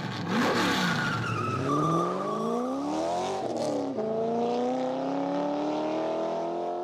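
Engine-like intro sound effects: several pitched whines sweep up and down and cross one another, then settle into one steady, slowly rising tone like an engine revving up.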